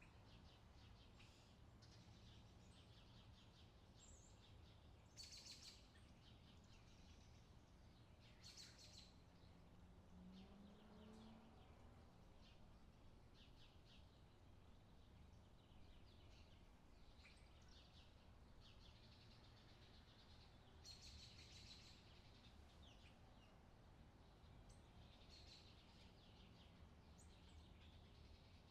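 Faint outdoor summer ambience: many small birds chirping and twittering on and off over a low, steady background rumble.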